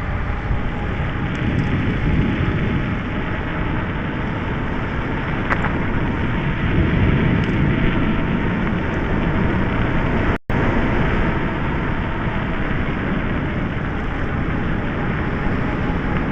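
Steady rushing noise of an electric bicycle being ridden over frozen snow in a forest: wind on the microphone and tyres on the crusted snow, with a faint steady whine from the electric motor. The sound cuts out for an instant about ten seconds in.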